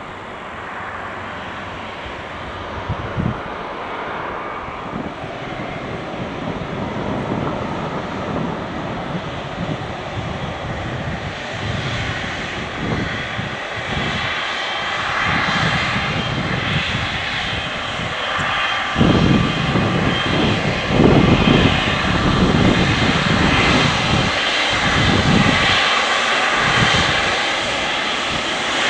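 Boeing 777 jet engines, growing steadily louder as the airliner draws closer, with a deep, uneven rumble swelling in the second half.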